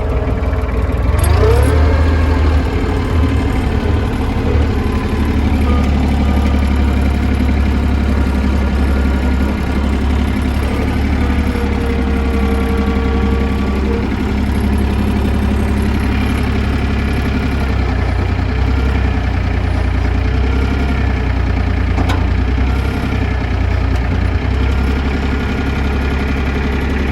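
Iseki TF330's three-cylinder diesel engine running steadily, with a whining tone that rises and falls now and then.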